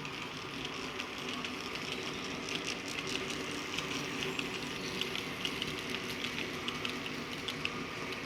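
N gauge model train running along the layout's track: a steady motor whirr with many light, irregular clicks of the wheels on the rails.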